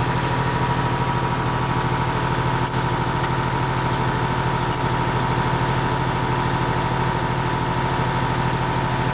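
A 50 kVA super-silent diesel generator set running steadily in its soundproof canopy: an even low hum with a faint steady high tone, which reads 66–67 dB at one metre.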